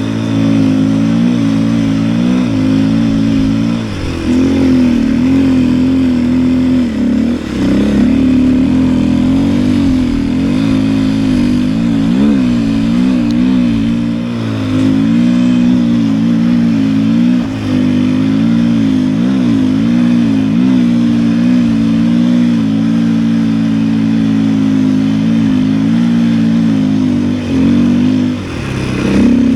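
Snowbike's single-cylinder four-stroke 450 dirt-bike engine running under load, its pitch rising and falling constantly with the throttle. The throttle is briefly let off a few seconds in, again about seven seconds in, and near the end.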